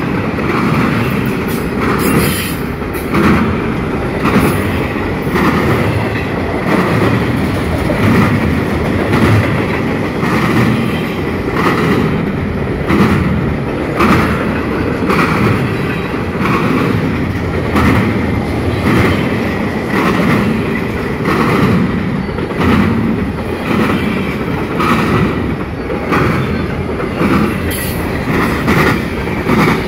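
Freight cars of a CSX intermodal train rolling past close by, their wheels clattering over a railroad crossing diamond in a steady, repeating rhythm.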